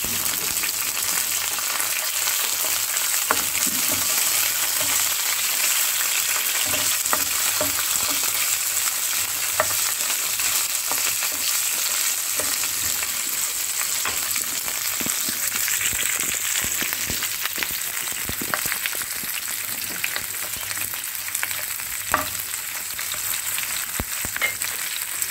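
Green chillies, garlic and cumin sizzling in hot oil in a non-stick frying pan, a steady hiss with scattered pops and the scrape of a wooden spatula as they are stirred.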